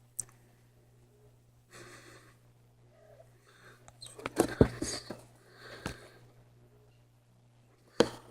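A person's breaths and sniffs close to the microphone, with a few sharp clicks, the loudest a single click near the end, over a steady low hum.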